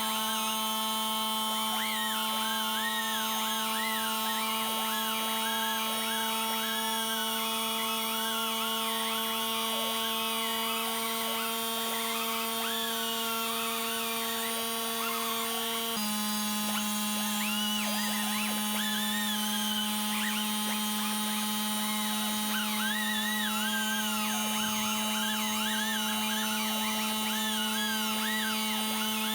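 Pneumatic 1/4-inch air die grinder with a small wire brush running continuously, a steady high-speed whine as the brush scuffs the paint on a cast iron stove. Its pitch drops slightly about halfway through.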